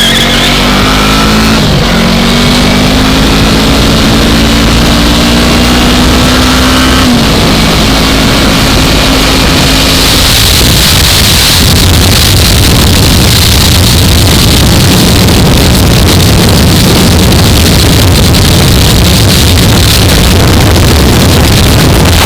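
2015 Yamaha R3's parallel-twin engine accelerating, its pitch climbing with a gear change about two seconds in and another about seven seconds in. From about ten seconds in, loud wind rush over the helmet-mounted microphone covers most of the engine as the bike holds speed.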